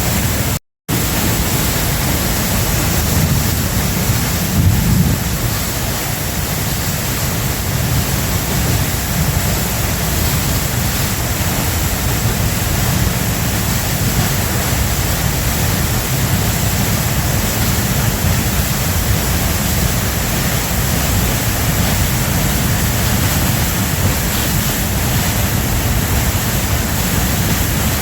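Waterfall pouring: a loud, steady rush of falling water with a heavy low rumble, cut off for a split second near the start.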